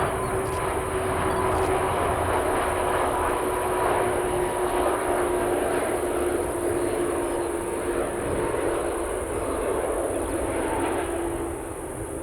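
Airliner engines running as an aircraft passes: a broad rumble with a steady whine on top that sinks slightly in pitch, easing off a little near the end.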